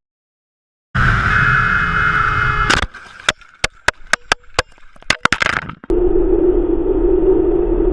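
Road traffic and vehicle engine noise in separate cuts. First a steady whine over a rumble, then a string of sharp clicks and knocks, then a steady engine drone from about six seconds in.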